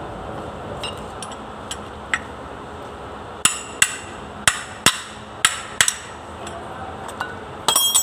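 Hammer striking metal: a few light taps, then six sharp ringing blows at about two to three a second, and a quick run of clinks near the end.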